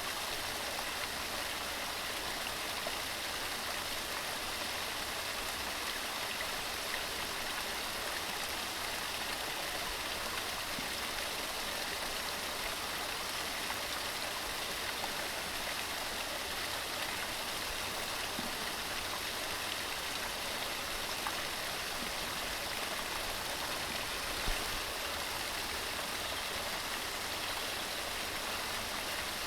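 Waterfall: water cascading over rocks in a steady, unbroken rush.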